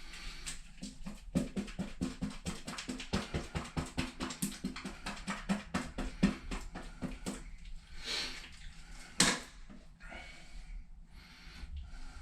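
A brush dabbing and stippling wet polyester resin into fiberglass mat over holes in a fiberglass shower pan, a quick run of wet taps at about five a second, then a single sharper knock later on.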